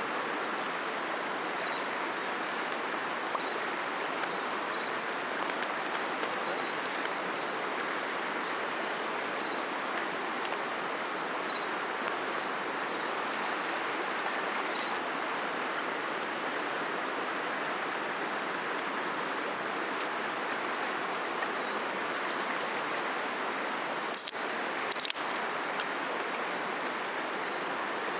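Steady rush of a flowing river, with two sharp clicks about a second apart near the end.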